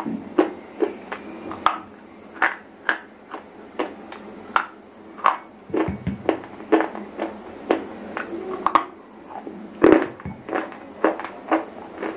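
Close-miked crunching as a piece of shele stone, a soft stone eaten for its crunch, is bitten and chewed. The sharp, crackling crunches come at an uneven pace of about two a second.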